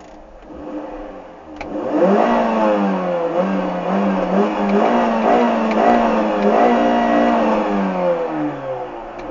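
Mini Cooper 1.6-litre engine heard from inside the cabin, revving up sharply about two seconds in after a click. It holds high revs with small rises and dips, then falls away near the end.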